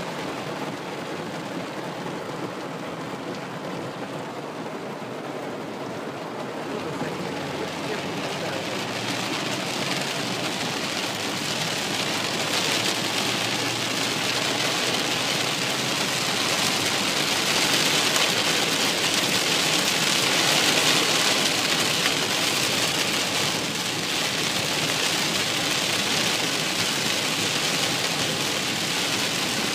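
Heavy rain pelting a car's roof and windshield, heard from inside the car as a dense, even hiss that grows louder and heavier about a quarter of the way in.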